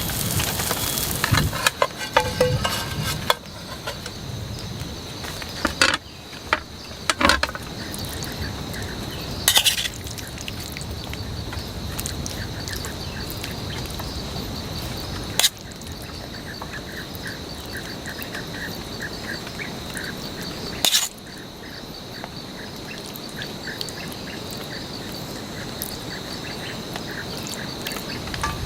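Rainforest ambience: a steady high insect drone over a light hiss of rain, with a run of rhythmic chirping in the middle. Several sharp knocks break in at uneven intervals.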